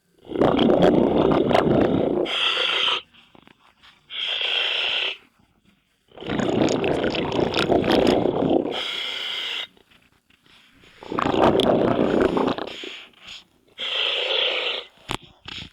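Scuba diver breathing through a regulator underwater: a long, rough rush of exhaled bubbles alternates with a shorter hissing inhale, about four breath cycles with near-silent pauses between them.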